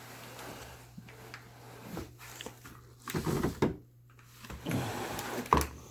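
Handling noises as a boxed marine air-conditioner unit is turned around: a few knocks and scrapes, the sharpest near the end, over a steady low hum.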